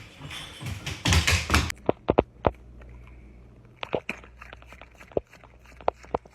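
A brief rustle, then a run of irregular sharp taps and clicks over a faint low hum.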